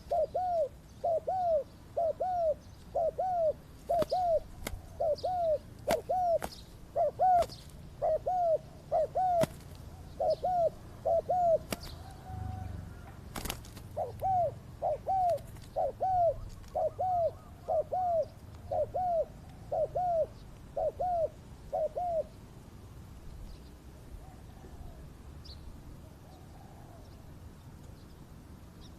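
Spotted dove cooing in a fast, even series of short arched coos, about two a second, that stops about three-quarters of the way through. A few sharp claps come in the first half.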